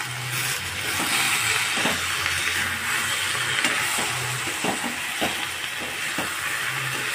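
Food sizzling in a hot iron kadhai while a perforated steel spatula stirs through soyabean chunks, peas, onion and spices. A few short scrapes of the spatula against the pan sound through the steady sizzle.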